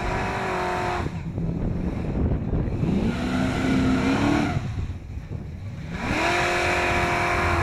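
A car engine revved hard in three bursts, each climbing in pitch and then held at high revs with a hiss over it: a burnout at the drag-race start, with tire smoke rising. The first burst ends about a second in, the second comes near the middle, and the third starts about six seconds in.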